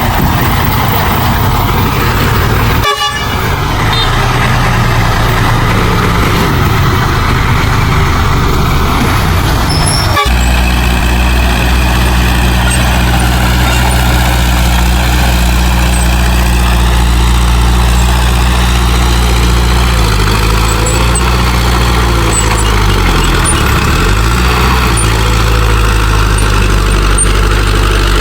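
Diesel engines of heavy earthmoving machinery running, with abrupt changes about 3 and 10 seconds in, after which a steady low engine drone holds, dipping briefly twice later on.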